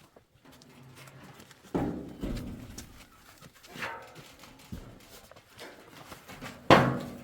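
A dog barking three times, with the loudest bark near the end.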